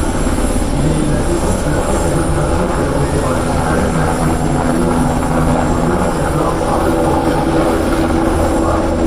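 Aircraft in flight at an air show display: loud, steady engine and rotor noise with a fast low pulsing and slowly drifting engine tones.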